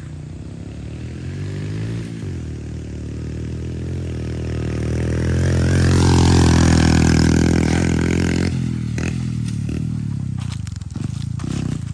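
Pit bike engine revving under load, growing louder to a peak about six seconds in, then dropping off suddenly about two seconds later. Scattered clicks and scrapes follow near the end.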